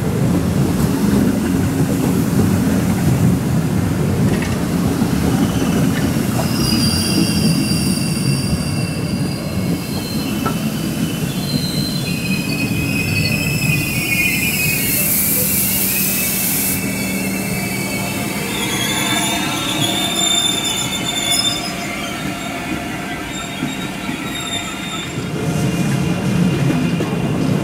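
ICE train cars rolling slowly past over the rails with a steady rumble. Their wheels squeal at several high pitches from about a quarter of the way in until near the end. There is a short hiss in the middle.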